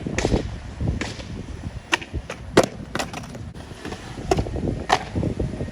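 Skateboard on urethane wheels rolling over wet concrete, with about seven sharp clacks of the deck and trucks hitting the ground; the loudest comes a little over two and a half seconds in.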